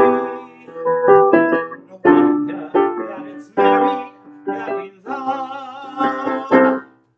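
Piano chords played one after another, each struck and left to ring and fade, breaking off shortly before the end.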